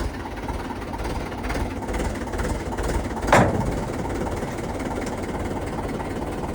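Diesel engine of a JCB 3DX backhoe loader running steadily, with one sharp bang a little over three seconds in.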